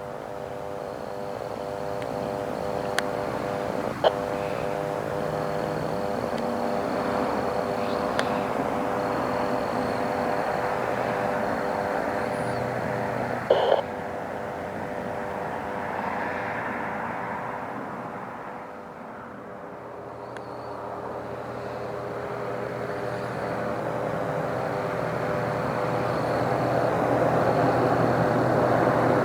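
Military aircraft engines flying past, a steady humming drone over rushing noise. It swells, eases off about two-thirds of the way through, then builds again toward the end, with a few short clicks along the way.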